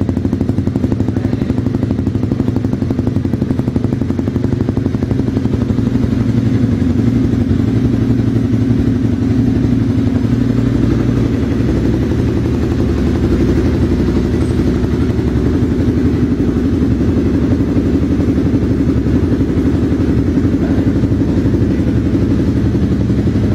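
Honda CBR250R's single-cylinder engine idling steadily through a Bizumo aftermarket exhaust.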